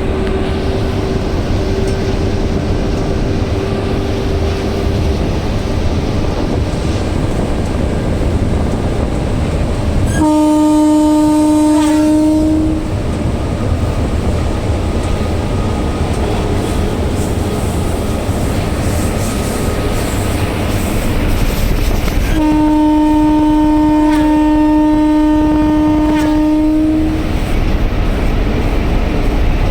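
Train running with a steady rumble and rattle, and a train horn blowing twice: a blast of about two and a half seconds about ten seconds in, and a longer one of about five seconds later on.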